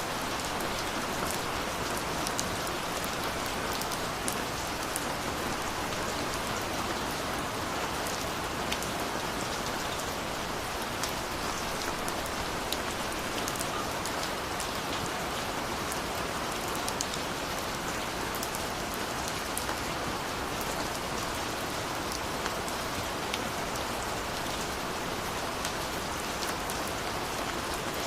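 Steady rain falling on a surface: an even hiss with many small drop ticks throughout.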